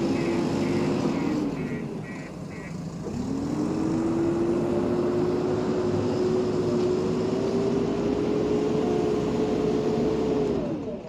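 Diesel engine of a JCB backhoe loader revving up under load while it works, easing off about two seconds in, climbing again a second later and holding high, then dropping near the end. A high electronic beep repeats about three times a second for the first couple of seconds.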